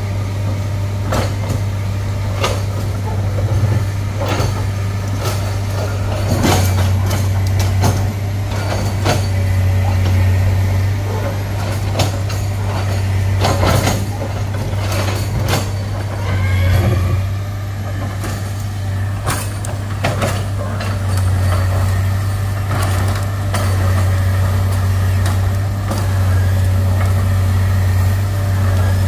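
Heavy diesel engine running steadily at a low drone, with many sharp metallic clanks and knocks over it.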